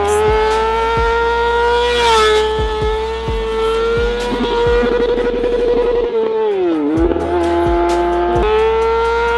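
Motorcycle engine held at high revs in one loud, steady high note, its pitch wavering slightly, then dipping briefly about seven seconds in before climbing back.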